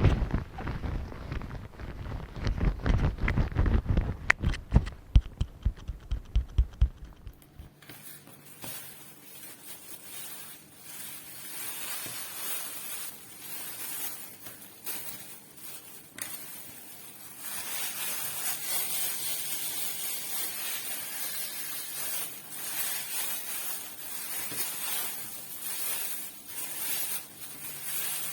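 Rubber-gloved fingers tapping and rubbing directly on a microphone: quick, deep thumps for about the first seven seconds, then a quieter, hissing scratching and rustling.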